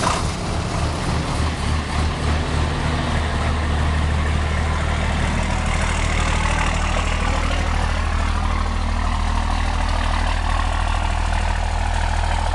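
1993 International DTA360 turbo-diesel school bus engine cold-starting after an overnight sit: it catches quickly and runs unevenly for the first few seconds, then settles into a steady cold idle.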